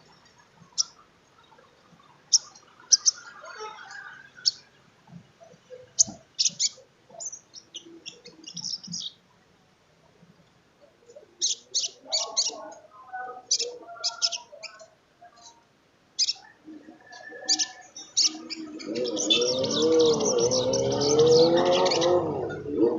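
Sunbird singing: clusters of quick, sharp, high chirps and trills with short pauses between them. About nineteen seconds in, a loud engine starts running and rises in level, drowning out the bird.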